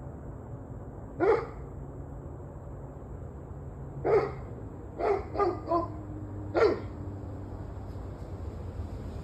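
A dog barking in short single barks: one, another a few seconds later, a quick run of three, then one more, over a steady low hum.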